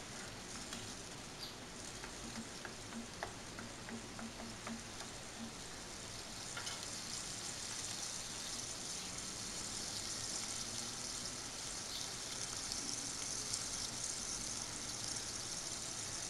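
Onion paste frying in hot oil in a pot, a steady sizzle with a spoon scraping and stirring through it in the first few seconds; the sizzle grows a little louder about six seconds in. The onion is being sautéed to cook out its rawness for a curry base.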